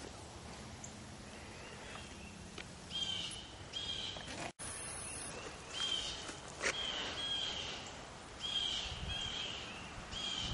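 A wild bird giving short, high, down-slurred chirps, repeated over and over in ones and pairs, over a faint steady outdoor hush with a couple of faint clicks.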